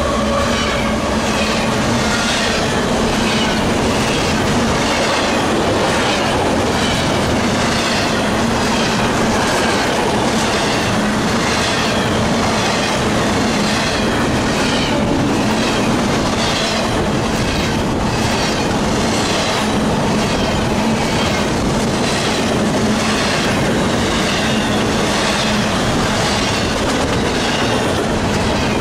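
CSX freight train of double-stack intermodal container cars rolling past close by, with steady wheel-on-rail noise and a rhythmic clickety-clack of wheels over the rail joints.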